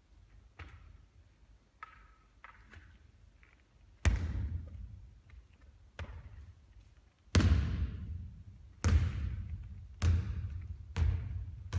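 A basketball bouncing on a court floor, each bounce echoing: one hard bounce about four seconds in, then from about seven seconds a run of bounces coming quicker and quicker as the ball settles.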